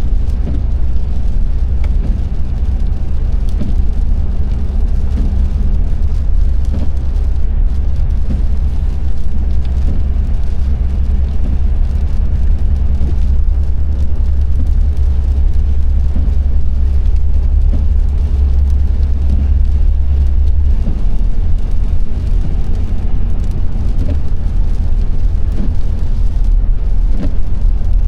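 Car driving along the road: a steady, loud low rumble of engine and tyre noise, which eases slightly about two-thirds of the way through.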